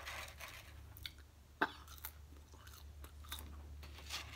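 Close-miked chewing and mouth smacking of fast food, a run of small irregular wet clicks with one sharper click about one and a half seconds in, over a low steady hum.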